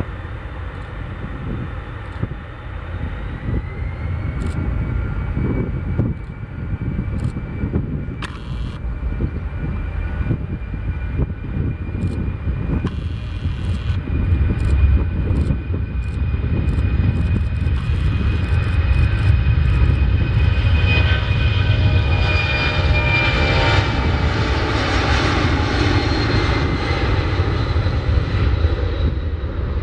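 Boeing C-17 Globemaster III's four Pratt & Whitney F117 turbofans at takeoff thrust on the takeoff roll, a deep jet noise with a high whine. It grows louder toward about twenty seconds in, then the whine falls in pitch as the jet goes past.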